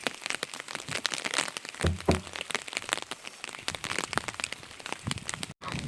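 Raindrops pattering on a surface as dense, irregular ticks, with a couple of dull thumps about two seconds in.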